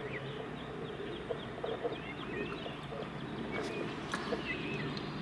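Small birds chirping over and over in short high chirps, with a few faint clicks of chewing and handling food.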